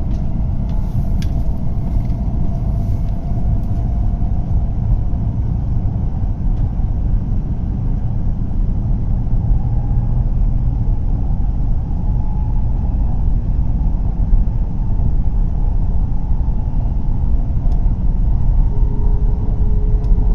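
A W7 series Hokuriku Shinkansen running at speed, heard from inside the passenger cabin as a steady low rumble with faint motor tones drifting up and down.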